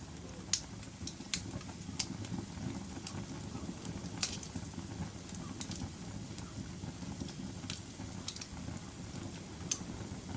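Wood fire burning in a fireplace: a steady low rumble of flames with sharp crackles and pops at irregular intervals, a dozen or so, the loudest about half a second in and about four seconds in.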